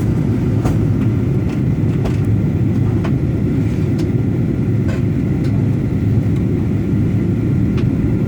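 Steady roar of a jet airliner's engines and airflow heard from inside the passenger cabin during descent, with a few faint, irregular clicks or rattles.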